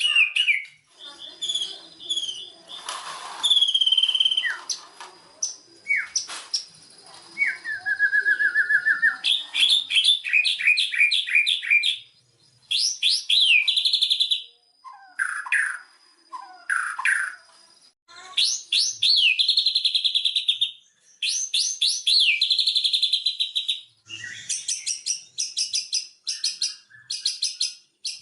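White-rumped shama (murai batu) singing a long, varied song of rapid repeated notes, trills and clear whistled glides, broken by a few short pauses.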